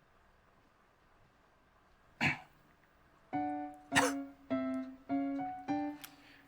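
A person coughing harshly twice, about two seconds in and again near four seconds, over a run of about five short, steady music notes.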